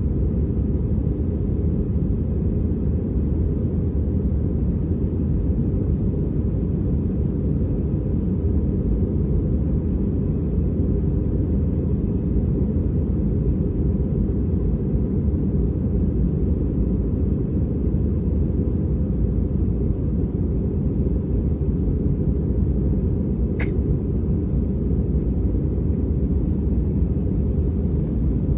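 Steady low rumble of an Airbus A320's engines and airflow heard inside the passenger cabin, unchanging throughout, with a single faint click about three-quarters of the way through.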